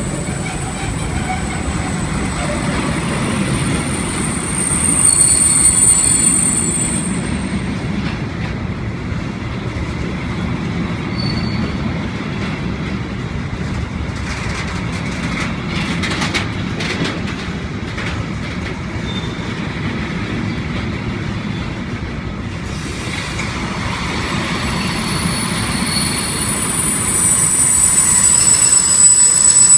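Freight train rolling on the rails with a steady rumble, its wheels squealing high-pitched near the start and again near the end.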